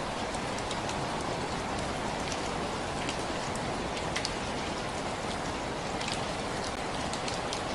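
Steady rain falling, with many separate drops ticking sharply over a constant hiss.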